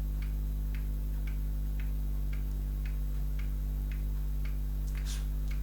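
A steady, even ticking, about two ticks a second, over a constant low electrical hum.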